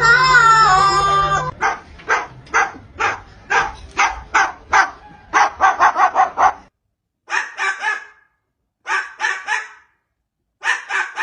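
Parrot imitating a dog's bark: a run of short, sharp barks about two a second, then three sets of three barks with brief silences between them.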